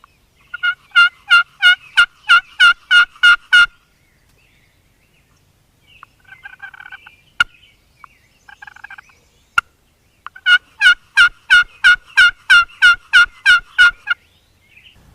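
A hand-operated wild turkey call sounding hen yelps in two loud runs of evenly spaced notes, about three a second. Softer, quieter calling and two sharp clicks come in between the runs.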